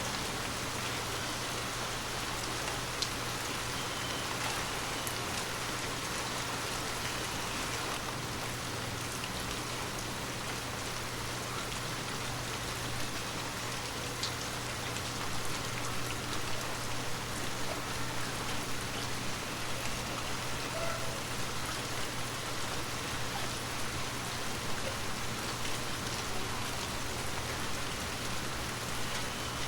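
Steady heavy rain falling and pattering on surfaces, with occasional distinct drop ticks and a faint steady low hum underneath.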